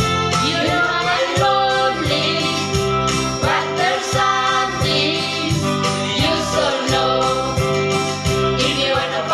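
Voices singing a song over instrumental accompaniment with a steady beat.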